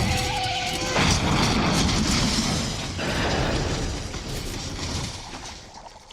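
Film crash sound effects from a vehicle chase. A squealing metallic screech gives way about a second in to a sudden loud crash of metal and debris, which rumbles and fades toward the end.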